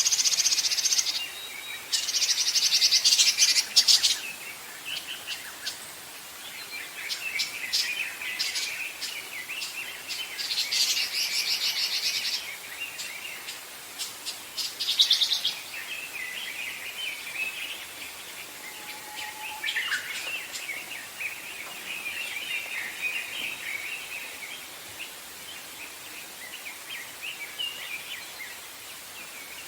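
Wild birds singing: several loud, rapid high trills a second or two long, over a continuous chorus of fainter chirps.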